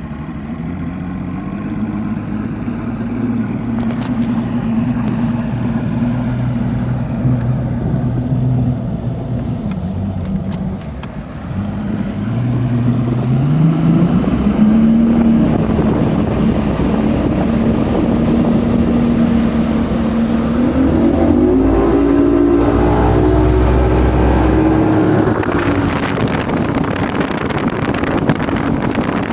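Engine running steadily, then rising in pitch as it speeds up, once about 12 seconds in and again about 21 seconds in, with a constant rushing noise underneath.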